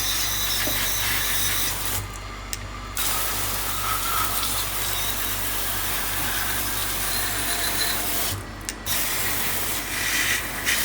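Water spraying from a sink spray nozzle onto a coffee grinder's hopper, rinsing out the detergent. The spray stops briefly about two seconds in and again shortly before the end.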